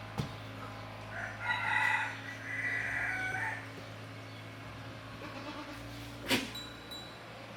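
A rooster crowing once, a call of about two and a half seconds in two phrases, over a steady low hum, with a sharp click about six seconds in.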